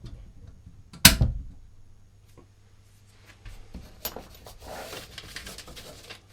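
Metal parts or tools being handled on a workbench: one loud knock about a second in, then a few light clicks and a brief scraping near the end.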